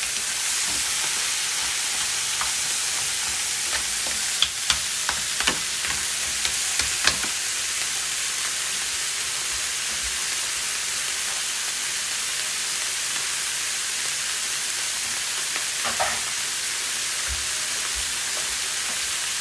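King crab leg pieces sizzling steadily as they are dry-fried in a nonstick frying pan. A wooden spatula stirs them, with short clicks and scrapes against the pan for the first seven seconds or so. After that the sizzle goes on alone, with one more light knock near the end.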